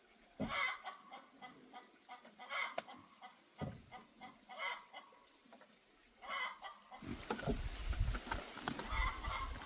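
Chickens clucking, short calls coming every second or two. From about seven seconds in, a louder rustling noise with a low rumble comes in over them.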